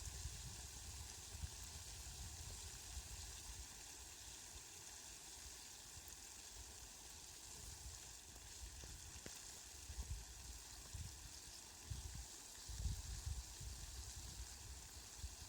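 Steady, faint hiss of rain, with a few low rumbles in the second half.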